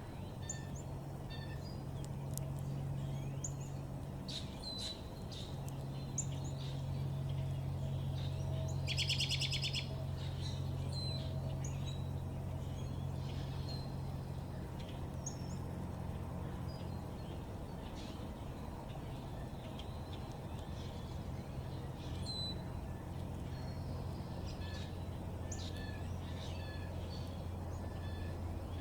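Small backyard birds chirping and calling in short, scattered notes, with one rapid buzzy trill about nine seconds in. A steady low hum runs underneath.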